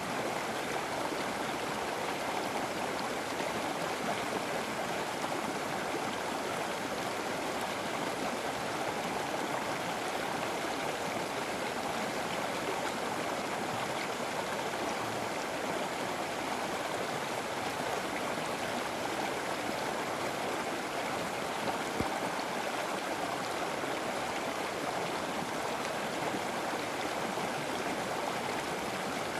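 River water flowing steadily over rocks, an even rushing and gurgling, with a single small click about 22 seconds in.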